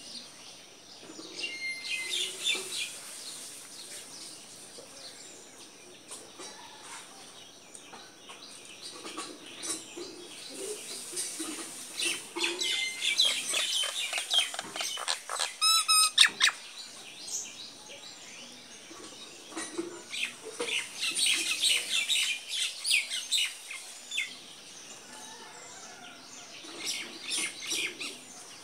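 Small birds chirping in clusters of quick, high calls, with quieter lulls between the bursts.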